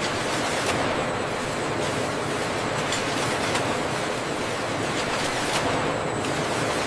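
Food-processing machinery running, a steady even rushing noise with a few faint clicks.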